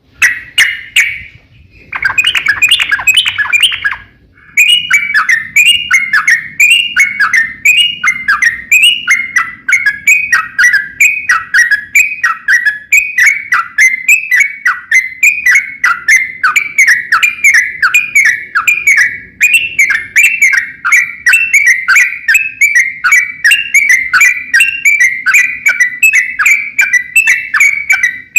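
Yellow-vented bulbul (trucukan) singing a long unbroken run of quick, repeated falling notes, about two to three a second, after two short bursts in the first few seconds.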